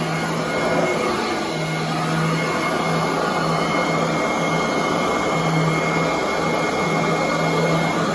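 Royal commercial vacuum cleaner running steadily on carpet. It has a thin steady whine, and a low hum that swells and drops off irregularly every second or so.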